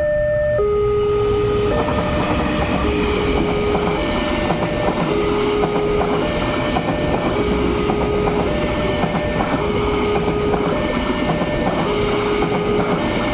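Matarmaja passenger train running past over a level crossing, its wheels clattering on the rails, rising about two seconds in. Over it the crossing's electronic alarm keeps sounding two alternating tones, switching about once a second.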